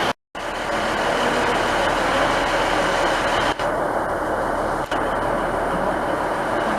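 Train running with a steady, even noise, after a brief break in the sound just after the start.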